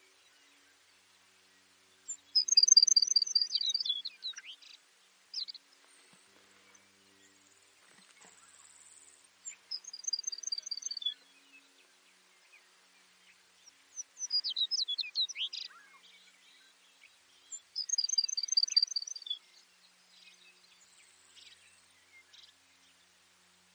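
Baird's sparrow singing: four high songs a few seconds apart, each a rapid trill of repeated notes lasting one to two seconds.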